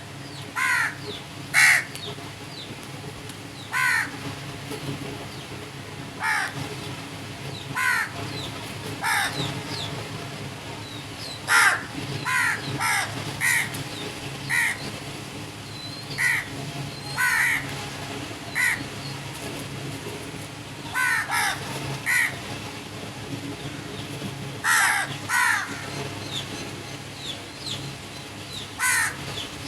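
Crows cawing: short, harsh caws repeated every second or two, sometimes singly and sometimes in quick runs of two or three, over a steady low background hum.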